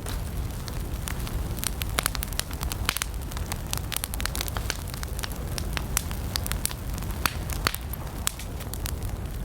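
Wood campfire burning with frequent sharp, irregular crackles and pops over a steady low rumble of the flames.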